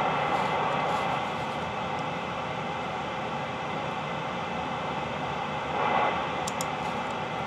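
Steady static hiss from a Premier Centurion radio's speaker between transmissions, the band noise of fading skip conditions, with a brief swell about six seconds in.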